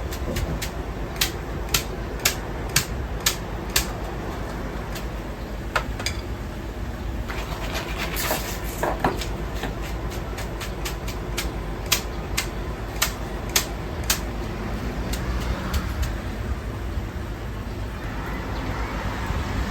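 Ramen-kitchen work over a steady hum: runs of sharp knocks of utensils, about two a second, early and again past the middle, with a brief hiss around the middle.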